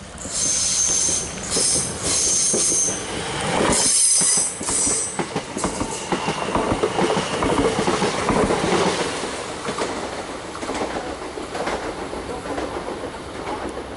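A train passes on the track. High-pitched metallic squealing comes in several short bursts over the first five seconds, then the wheels rumble and clatter over the rails, loudest midway before fading.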